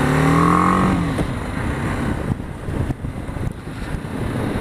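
BMW G 310 GS's single-cylinder engine pulling under acceleration, its note rising through the first second. It then drops back under road and wind rumble.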